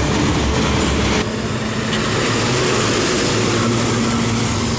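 Heavy trucks on the highway: a steady diesel engine drone with road and tyre noise. About a second in, the low rumble changes and a faint high whine rises slowly.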